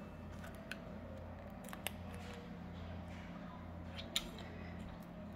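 Faint handling noises of small plastic toy pieces and stickers: a few scattered sharp clicks and light rustles over a steady low hum.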